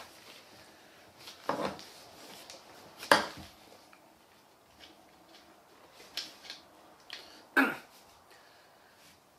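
A handful of short, sharp knocks and clicks from large dolls being handled and set down on a cloth-covered table, the loudest about three seconds in and another near the end, with quiet room tone between.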